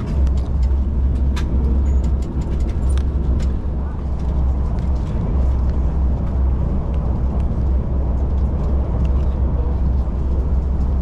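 Steady low rumble of the moving train, heard from inside the passenger carriage. Light clicks of cutlery against a meal tray come mostly in the first few seconds.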